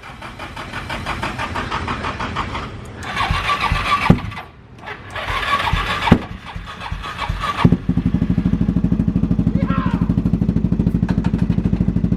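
Nissan S13's SR20 four-cylinder engine being cranked on the starter in two tries. Near the end of the second try, about eight seconds in, it catches and settles into a steady, evenly pulsing idle.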